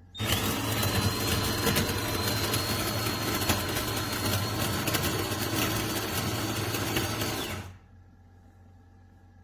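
An automatic bean-to-cup espresso machine runs its motor with a loud steady buzz and a high whine. It stops abruptly about seven and a half seconds in.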